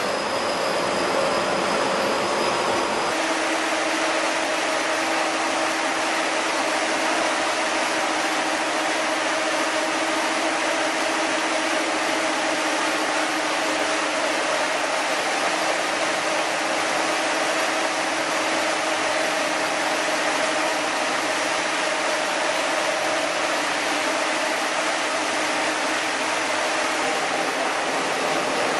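Chili milling and processing machinery running steadily: a loud, even rushing noise with a faint low hum. About three seconds in, a faint high whine stops and the hum shifts slightly.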